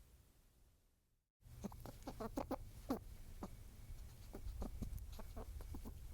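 Outdoor ambience fades out to silence about a second in, then cuts back in with birds giving many short calls in quick succession over a steady low rumble.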